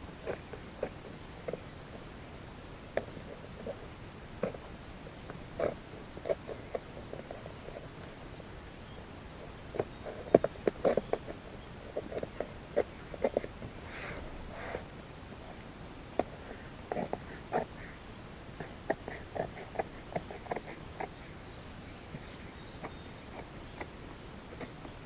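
Scissors snipping through the excess of a leather seat cover in short, irregular clusters of cuts, the busiest about ten seconds in. Behind it a cricket chirps in a fast, even, high-pitched pulse.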